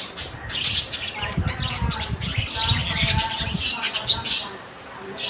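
Small pet parrots (lovebirds and budgies) chirping and chattering in a rapid, busy flurry, with soft low thuds underneath. The chirping eases off near the end.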